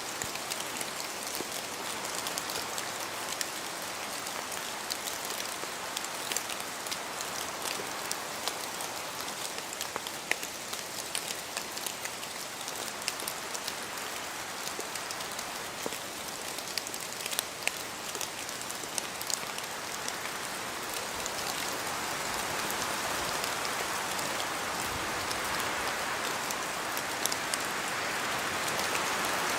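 Steady rain in a spruce forest, with a close, irregular patter of drops falling from the trees. From about two-thirds of the way through, the sound swells louder as wind blows through the spruce.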